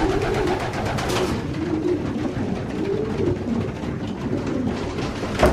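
Racing pigeons cooing continuously, several birds' low rising-and-falling calls overlapping, with a few sharp clicks and knocks, in a small loft room.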